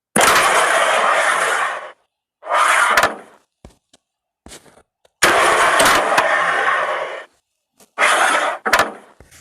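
Carrom pieces struck and sliding across the board: each shot sets off a rough sliding noise that lasts up to about two seconds, with sharp clacks of pieces hitting each other. Four or five shots follow one another.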